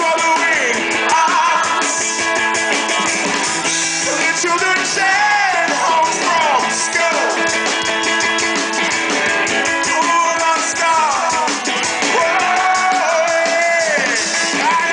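Rock band playing live and loud: electric guitars and a drum kit, with a lead vocal singing over them.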